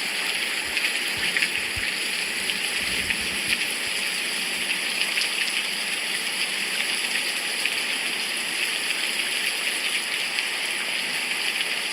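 Steady rain: an even hiss with fine scattered drop ticks. A few soft low thumps come in the first few seconds.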